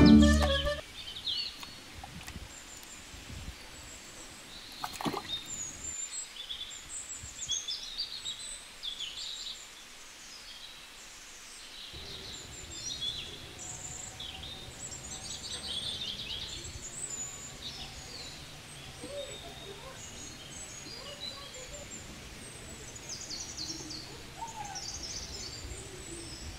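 Small birds chirping, many short high calls scattered throughout, over a low background rumble that drops away for several seconds in the middle.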